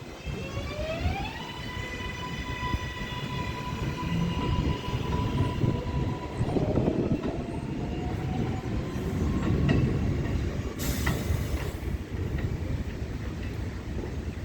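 R142-family subway train's traction motors whining as it accelerates, the pitch climbing steeply for about a second and a half and then holding steady, over the rumble of wheels on the rails. A second, lower whine rises slowly midway, and a brief burst of hissing noise comes near the end.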